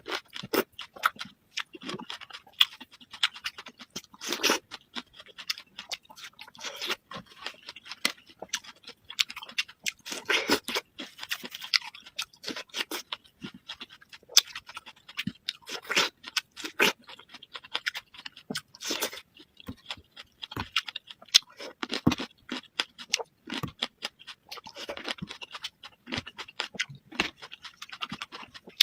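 Close-miked chewing and crunching of food, a dense run of irregular crackles and mouth smacks.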